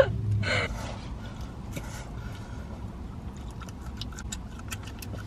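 Close-up chewing of a soft flour-tortilla taco, with a run of small wet mouth clicks in the second half, over a low steady hum. A sharp click and a brief burst of laughter right at the start.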